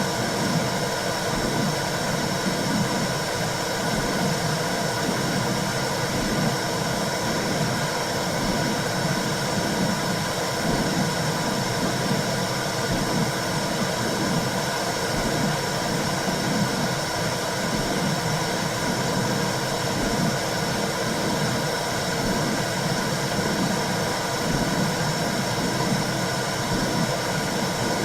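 Womb sound for soothing a newborn: a steady whooshing noise with a slow, even pulse in its low part.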